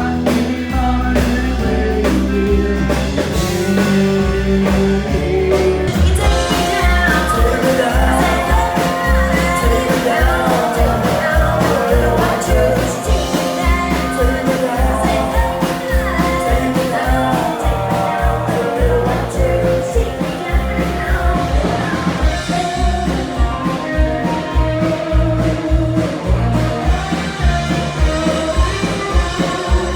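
Band music with a steady drum beat and a melodic lead line, a break between sung verses of a country-style song.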